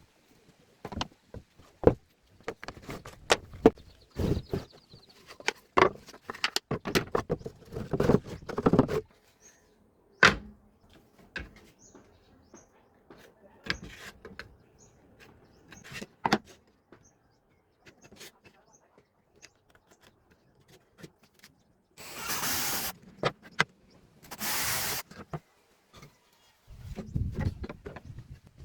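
Woodworking workshop sounds: a run of irregular knocks and clatters as wooden pieces are handled. Near the end come two short bursts of loud hissing noise about two seconds apart, then a lower rumble.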